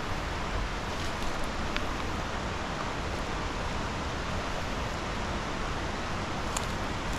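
Steady rushing of river water, an even hiss with no change, with a few faint clicks over it.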